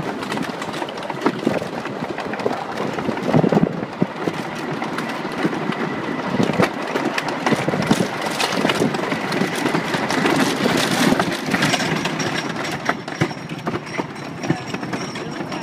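Wooden roller coaster train running on its track: a steady rumble with frequent clacks and rattles.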